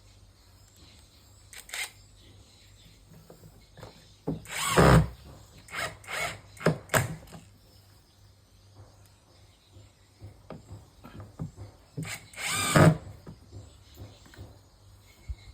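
Power drill driving in the bolts of a newly fitted washing-machine gearbox, in short bursts: two longer runs of about a second, about five seconds in and again near the end, with several brief blips between.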